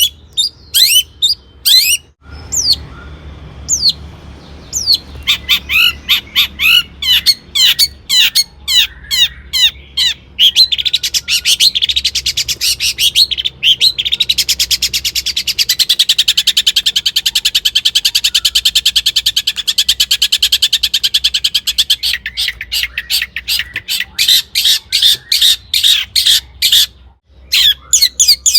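Long-tailed shrike (cendet) singing a loud, varied song of sharp, quick high notes, with a long, fast, unbroken trill from about ten seconds in until about twenty-two seconds, then separate sharp notes again.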